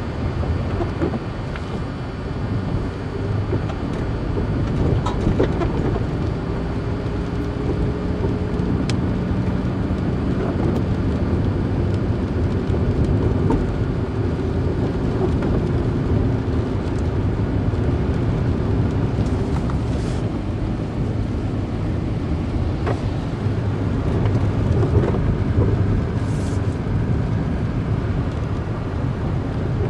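A car driving: steady low rumble of road and engine noise, with a faint engine tone between about six and sixteen seconds in and scattered light clicks and ticks.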